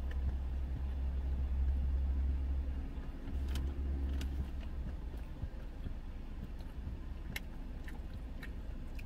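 Low, steady rumble of a car idling, heard from inside the cabin; it dips briefly about three seconds in and is softer from about halfway. A few light clicks and smacks come from eating out of a takeout cup with a plastic lid.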